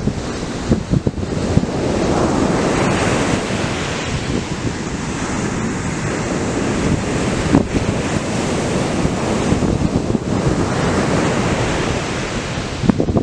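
Atlantic surf breaking and washing up the beach in a steady rush that swells about two seconds in, with gusts of wind buffeting the microphone.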